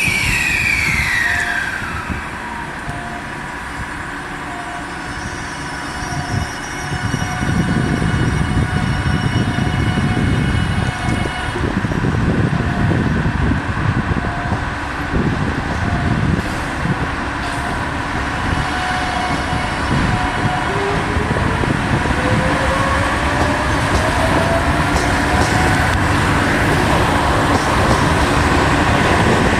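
Low, heavy rumble of a diesel shunting locomotive moving container wagons, starting about seven seconds in and running on steadily. Before it, a railway level-crossing alarm dings in even pulses, and a slow rising whine comes in near the end.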